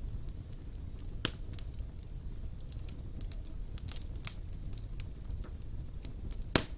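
Wood fire burning in a fireplace: a steady low rumble of flames with frequent small crackles. Two sharper pops stand out, one a little over a second in and a louder one near the end.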